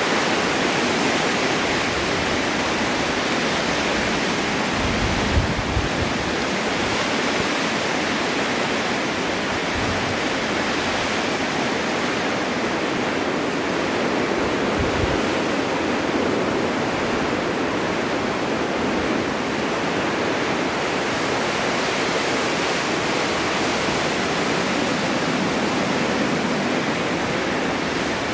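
Snowstorm wind blowing steadily, a constant rushing hiss, with a few brief low rumbles of gusts now and then.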